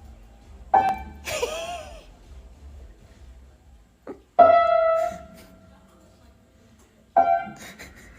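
Background music of sparse piano notes: three separate notes, the loudest about four seconds in, ringing on for over a second.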